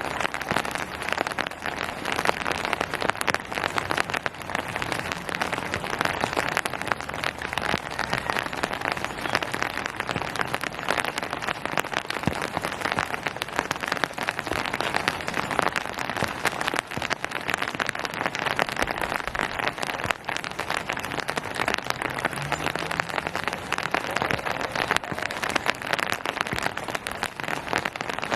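Steady rain falling on surfaces: a dense, even patter of many drops.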